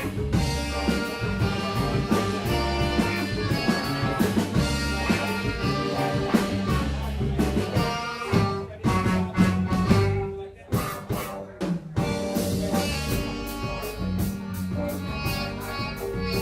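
Live band music with a drum kit and a steady groove; about ten seconds in the band drops to a few separate hits before the full groove comes back.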